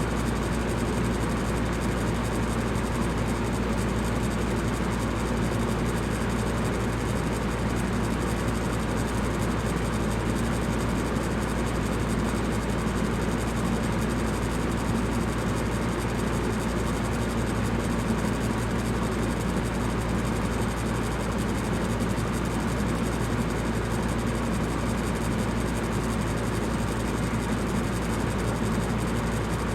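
Electric fan running steadily: a constant low hum and whoosh of moving air, unchanging throughout.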